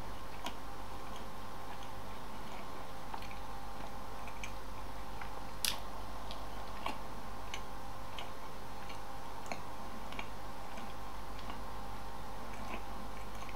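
Someone quietly chewing a mouthful of bread topped with caviar: scattered soft mouth clicks, one a little louder about halfway through, over a steady low hum.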